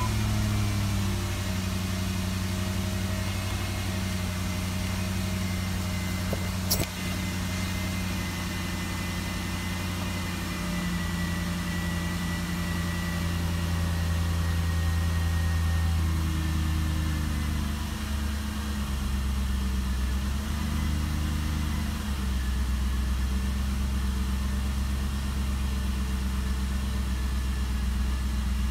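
2001 Jeep Grand Cherokee's 4.7-litre V8 idling just after a new idle air control valve was fitted. The idle speed steps up and down several times as the engine adjusts. A single sharp click comes about seven seconds in.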